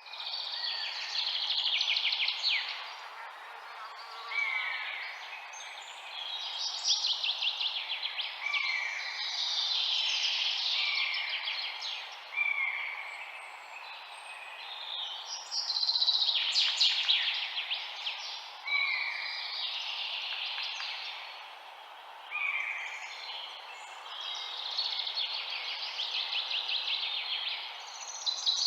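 Birds singing: overlapping song phrases every couple of seconds, made of fast trills and short down-slurred whistles, over a steady background hiss.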